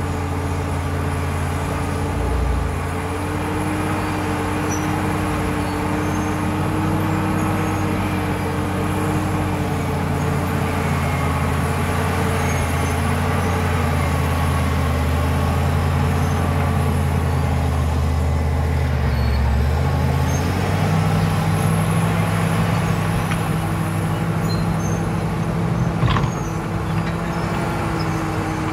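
Caterpillar D7 bulldozer's diesel engine running steadily while working, its note shifting a little higher about two-thirds of the way through. There is one sharp knock near the end.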